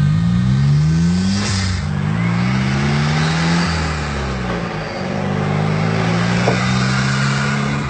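The VUL 05 supercar's turbocharged engine accelerating hard: its pitch climbs, drops and climbs again several times as it goes up through the gears, with a short hiss about a second and a half in.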